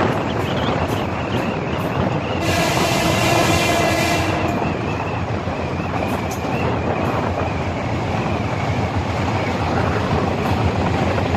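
A train running with a steady rumble. About two and a half seconds in, a pitched sound with several tones sounds over it for about two seconds.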